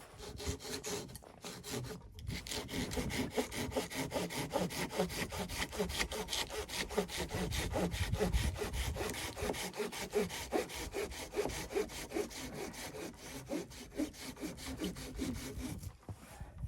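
Hand saw cutting through wood with quick, even back-and-forth strokes, pausing briefly about two seconds in.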